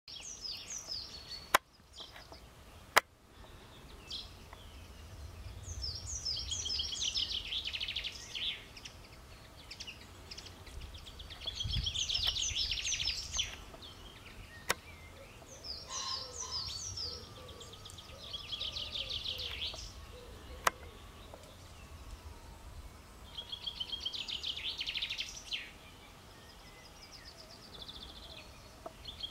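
A songbird singing the same short song over and over, about every five or six seconds: a few quick high notes falling into a fast trill. A few sharp clicks and some low rumbling come in between.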